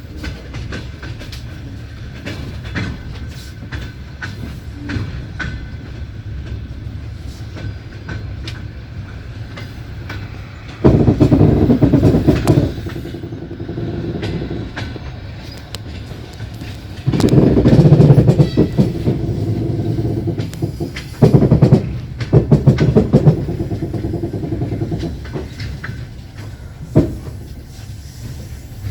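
Passenger train running on the rails, heard from inside a carriage: a steady rumble with the wheels clicking over rail joints. Three louder stretches of heavy clattering come in the middle.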